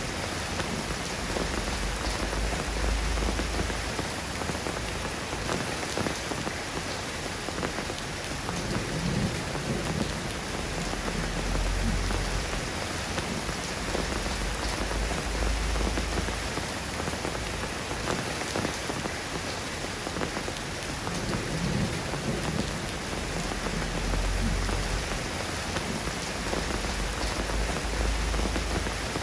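Steady rain falling on a surface, a dense even patter. A low rumble swells and fades underneath it three times.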